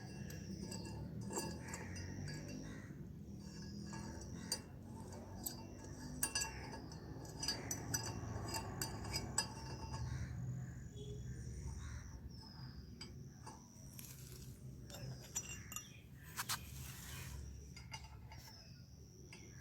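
Scattered metallic clinks and taps of a spanner and small fittings as a turbo-sound whistle is bolted onto a motorcycle exhaust, with a low steady rumble underneath.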